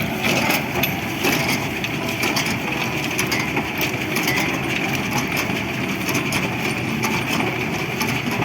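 Tractor-driven small square hay baler running: a steady engine drone with a constant mid-pitched whine and frequent irregular clicks and knocks from the baler working.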